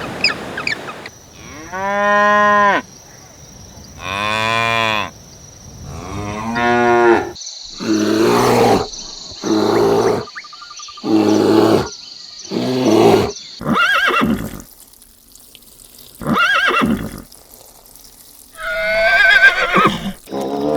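Cattle mooing, a run of about ten separate drawn-out calls with short gaps between them. Two calls in the latter half are higher-pitched, and the last one wavers.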